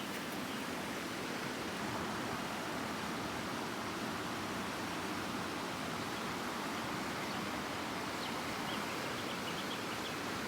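A river rushing steadily, an even unbroken water noise.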